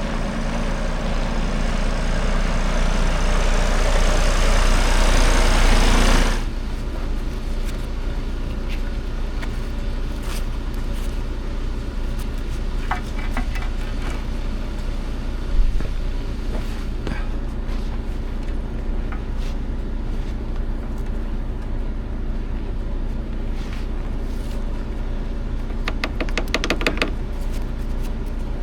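Timber truck running: a loud rising noise for about six seconds that cuts off suddenly, then a steady lower idle hum with scattered clicks, one sharp knock about halfway, and a run of quick ticks near the end.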